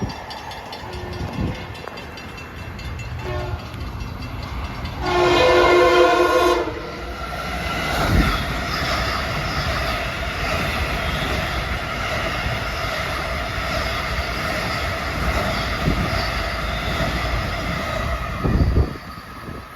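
A Long Island Rail Road M3 electric train sounds its horn, brief toots and then a long loud blast about five seconds in, and runs through the station fast, a steady roar of motors and wheels with knocks at rail joints that cuts off sharply near the end as the last car passes.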